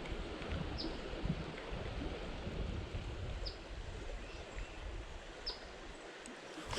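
A small bird repeating a short, high, downward-slurred chirp every two to three seconds, over a steady outdoor background hiss and low rumble.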